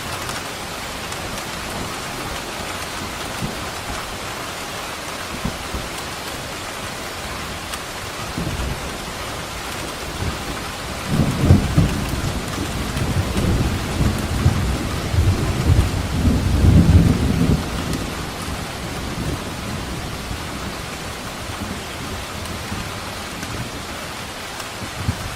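Steady rain falling, with thunder rumbling low for about seven seconds in the middle, swelling twice before it fades back into the rain.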